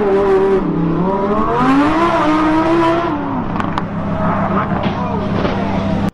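Car engine revving hard, its pitch rising and falling over several seconds above a steady low engine hum. It cuts off suddenly at the end.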